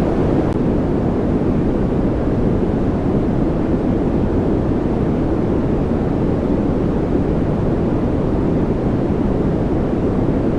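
Continuous white-noise track for relaxation and focus: a steady, deep rushing hiss, heaviest in the low range and soft in the treble, that never changes.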